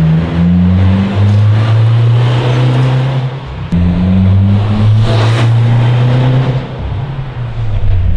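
Suzuki Jimny's engine and exhaust running steadily under throttle. The note breaks off briefly about three and a half seconds in, comes back at the same pitch, and eases off near the end.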